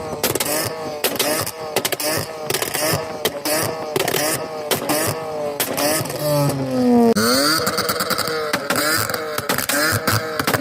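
Car engines revving at a car meet, their pitch climbing and dropping again and again, with sharp cracks and pops mixed in.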